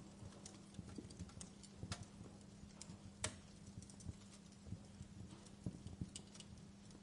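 Wood fire crackling: irregular sharp pops and snaps over a low steady hum, with one louder pop about three seconds in.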